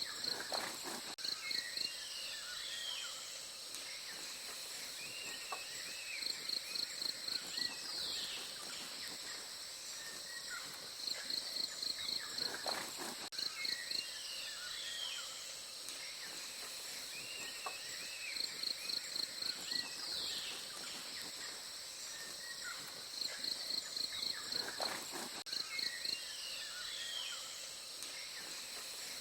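Forest ambience: a steady high insect drone with bird calls over it. The calls include short runs of rapid high notes, about six a second, and scattered chirps and whistles. The same sequence of calls comes round again about every twelve seconds.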